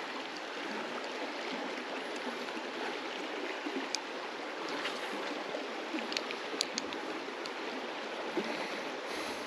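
Flowing river water: a steady rush of current, with a few faint ticks scattered through it.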